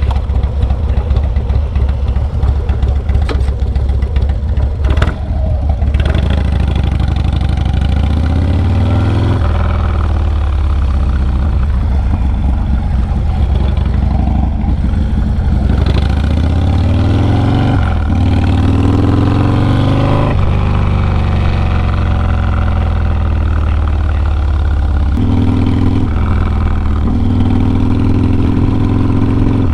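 Harley-Davidson Low Rider S's 110 cubic inch V-twin running through a Sawicki Speed 2-into-1 exhaust. It lopes unevenly at low revs for the first few seconds, then pulls away, revving up through several gears with the pitch rising and dropping back at each shift.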